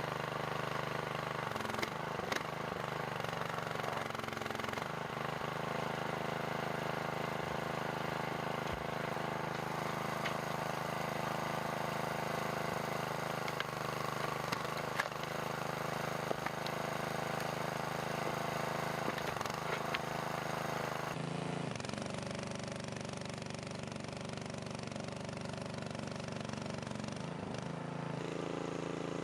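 Small 200cc single-cylinder engine of a hydraulic log splitter's power unit, running steadily at constant speed, with occasional sharp clicks or cracks over it.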